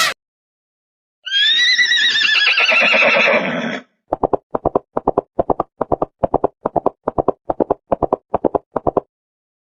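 A horse whinnying once, a long quavering call that falls in pitch, followed by a steady clip-clop of hooves for about five seconds.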